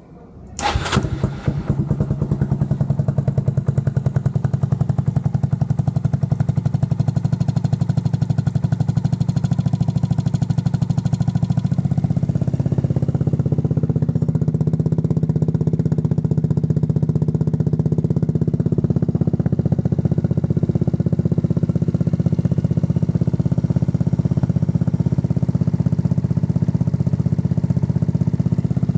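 Yamaha Majesty 250 scooter-trike's single-cylinder engine starting about half a second in, then idling steadily; its sound changes slightly about twelve seconds in.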